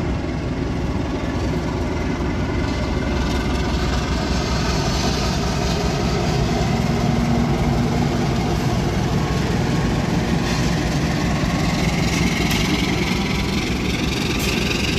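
Diesel train running: a steady engine and wheel-on-rail noise, with a whine rising in pitch over the last few seconds.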